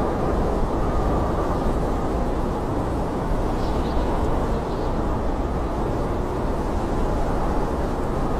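Blizzard wind: a steady, deep rushing noise without a break, with a few faint high squeaks about halfway through.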